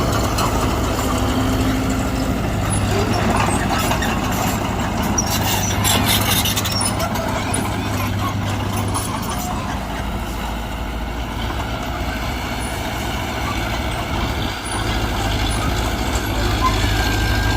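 Heavy diesel earthmoving machinery, a bulldozer and a dump truck, running steadily with a low engine drone, and a short hiss about five to seven seconds in.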